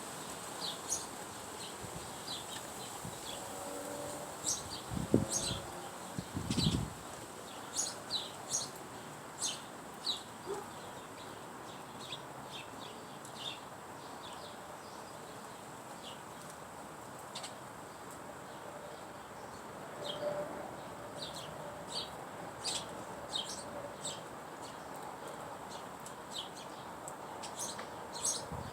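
Small backyard birds chirping: many short, high chirps in scattered clusters, with two low thumps about five and six and a half seconds in.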